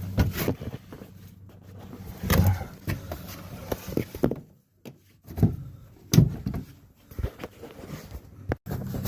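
Scattered knocks and clunks of hands working the plumbing on a pressure-washing rig: valves and hose fittings being handled, with a low hum underneath.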